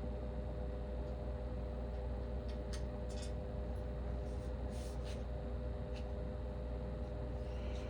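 A steady electrical hum, with a few faint, short clicks and light scrapes of small lamp parts and tiny screws being handled during assembly, around three and five seconds in.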